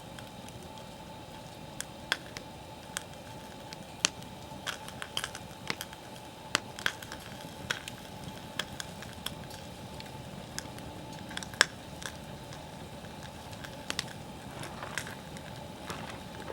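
Wood campfire crackling: irregular sharp pops and snaps over a steady low rush of the burning fire.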